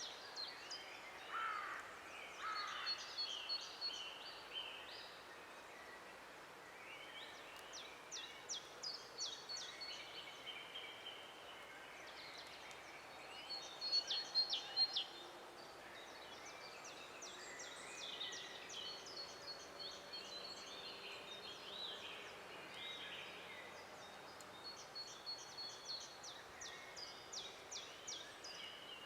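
Several songbirds singing at once in a forest: overlapping chirps, short whistles and rapid trills, with a louder run of quick notes about halfway through.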